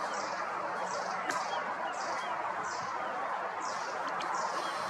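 Birds chirping faintly in woodland over a steady rushing background, with a short high hiss repeating about every 0.7 s.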